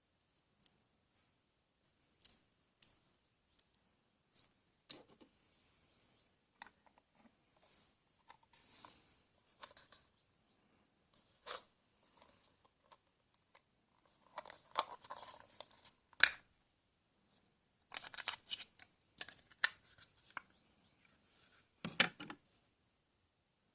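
Plastic toy tools being handled: scattered clicks, taps and short scraping bursts, with the sharpest knocks about sixteen and twenty-two seconds in.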